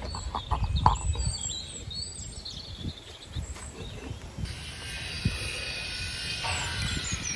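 Birds chirping in the background over a low, steady rumble, with a few faint knocks.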